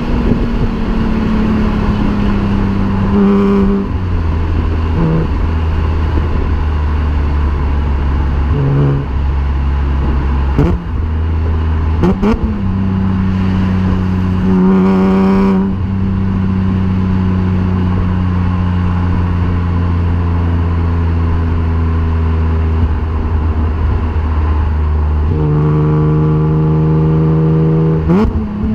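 BMW E36 M3's 3.2-litre straight-six through a homemade exhaust, driving at steady revs with a constant drone. Several brief blips and gear changes break the drone, around 3–4 s, 9 s, 11–12 s and 15 s, and the pitch shifts again near 25 s.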